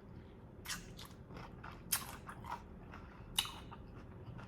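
Close-miked chewing of chewy tteokbokki rice cakes: faint, wet mouth clicks and smacks, four of them standing out louder.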